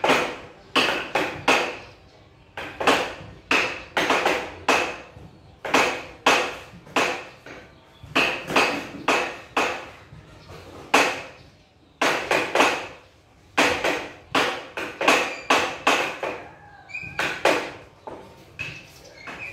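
A string of sharp knocks or taps in irregular runs, about two or three a second, each ringing briefly.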